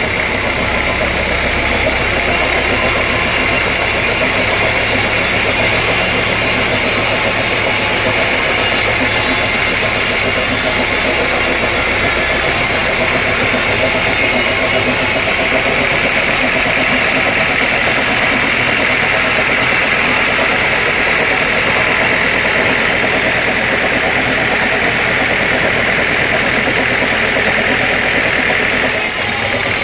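Sawmill log saw and its driving engine running steadily: a loud, constant machine noise with a hum underneath.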